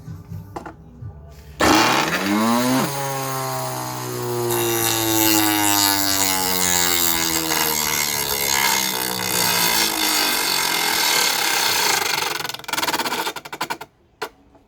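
Vacuum cleaner motor driving a homemade disc sander: it switches on with a fast rising whine as it spins up, runs loud with a gradually falling pitch, then is cut off, with a few short bursts before it stops.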